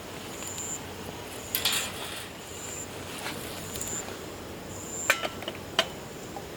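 An insect calling outdoors in short, high chirps repeating about once a second, with a brief rustle early on and two sharp clicks near the end.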